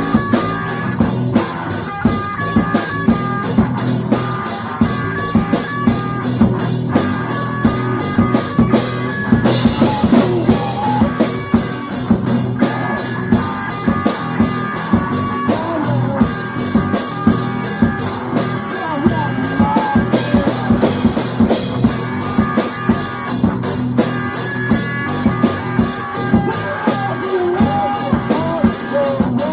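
Instrumental rock music: a drum kit keeping a steady beat under held guitar notes, with no singing.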